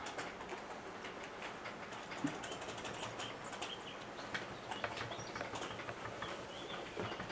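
Scattered bird chirps and twitters over a steady, faint background hiss.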